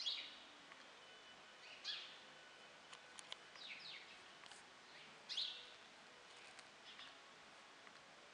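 Small birds chirping now and then: short, quick falling chirps, the loudest at the start and about five seconds in, with a few faint clicks over a quiet background.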